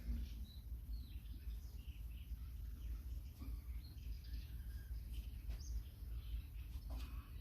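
Birds chirping with scattered short calls over a steady low rumble.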